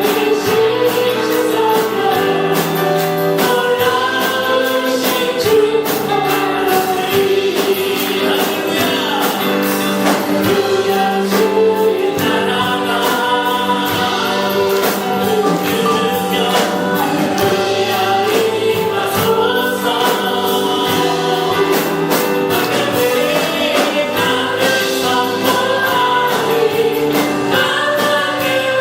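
A congregation singing a gospel worship song with a band accompaniment, at a steady beat.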